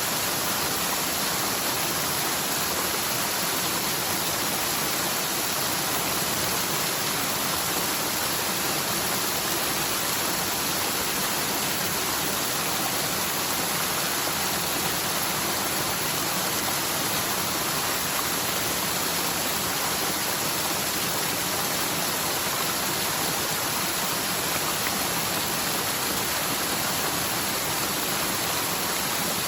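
Mountain forest stream running full with typhoon rainwater, a channel that is normally nearly dry: a steady, unbroken hiss of fast water cascading down the slope.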